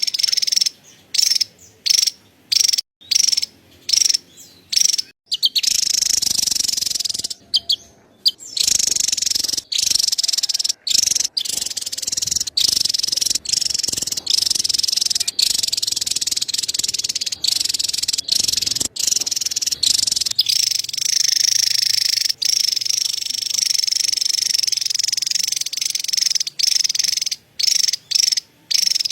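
Javan tesia giving its rapid, high-pitched chattering call. It starts as short bursts with pauses between them, runs into one long, nearly unbroken chatter for most of the middle, and breaks into short bursts again near the end.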